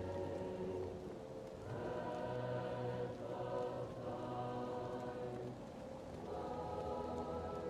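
Choir singing long held chords, muffled as if heard from another room, with a fireplace crackling faintly underneath. The chord changes about two seconds in and again near the end.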